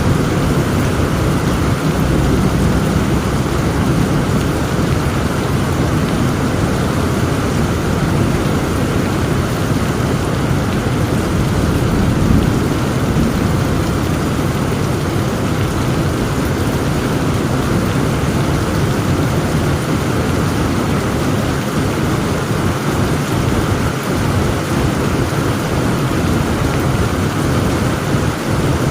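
Heavy rain falling steadily, with low rolling thunder rumbling underneath.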